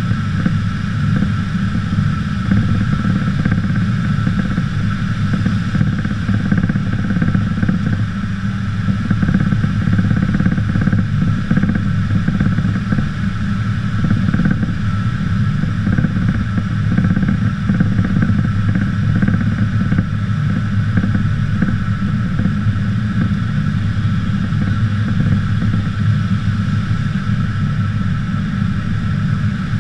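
Aircraft engine drone heard from inside the cabin, steady and loud: a low rumble with a constant high tone over it.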